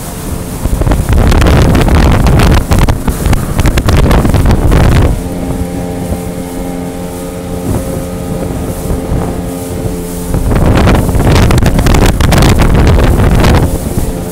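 Jet boat engine running at a steady pitch, with heavy wind buffeting on the microphone that eases for about five seconds in the middle, leaving the engine tone clear.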